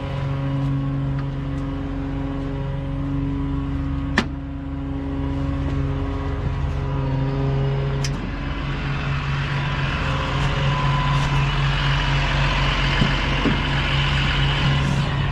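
An engine running at a steady speed, with two sharp clicks, about four and about eight seconds in. A hissing noise builds up over the second half.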